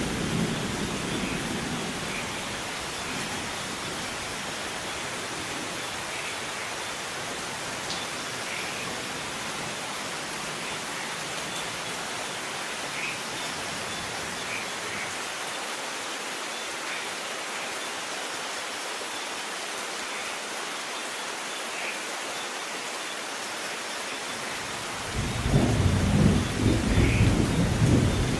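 Steady rain falling, with thunder rumbling: a low rumble dies away over the first couple of seconds, and a louder, deep rumble of thunder rolls in near the end.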